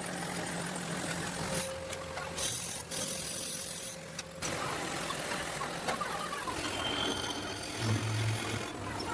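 Drilling machine running and its bits cutting into a cast iron sewing machine frame: a steady motor hum, with a stretch of hissy cutting noise from about one and a half to four seconds in and a few low thuds near the end.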